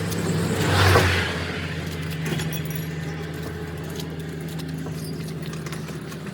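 A vehicle engine running steadily with a low hum, a louder rushing swell about a second in, and scattered light metallic clicks and clinks.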